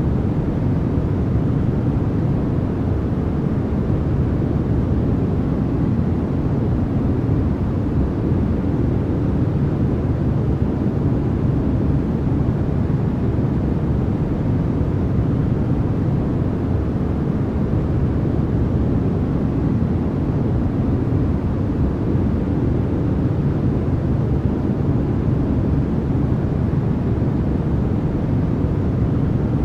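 Continuous generated noise of the kind sold as white noise for sleep, deep and rumbling rather than hissy, with no change in level or character.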